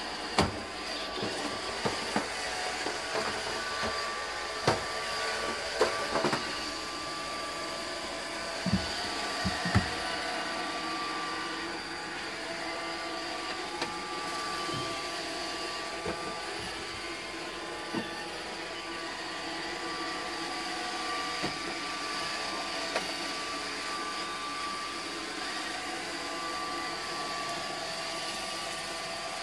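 iRobot Roomba 620 robot vacuum running: a steady whirring hum with a couple of high whining tones, and scattered sharp knocks, most of them in the first ten seconds.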